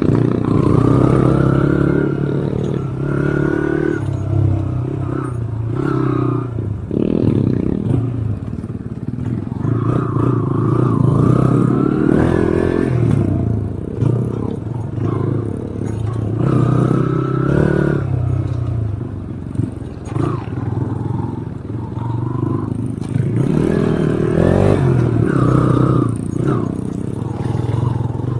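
Engine of an off-road vehicle running under load as it is driven along a trail, its pitch rising and falling again and again as the throttle is opened and eased.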